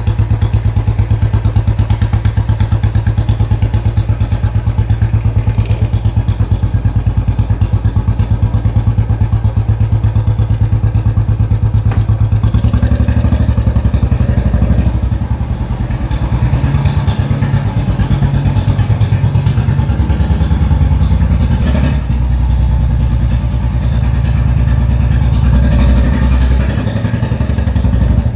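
Royal Enfield 500's single-cylinder engine running with an even, rapid low beat. About halfway through, the engine note becomes fuller and uneven.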